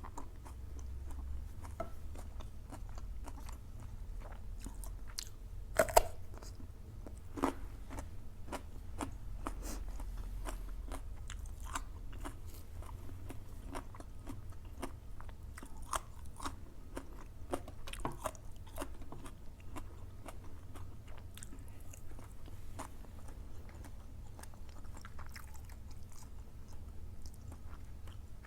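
Close-up chewing and crunching of soft bone (cartilage) from a spicy soup: steady mouth noises with many small crunches, and a couple of sharper clicks about six and seven seconds in.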